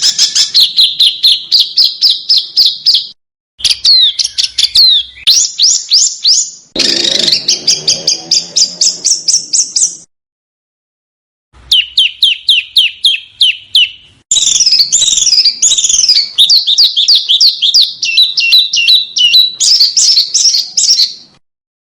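Small songbird singing fast trains of sharp, high, repeated notes, about five a second, one phrase climbing in pitch. The phrases are cut apart by abrupt dead silences, as in an edited song-training recording.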